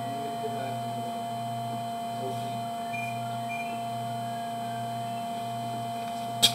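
Steady electrical hum from sewer-camera equipment, with a low drone that throbs on and off about every half second and a single sharp click near the end.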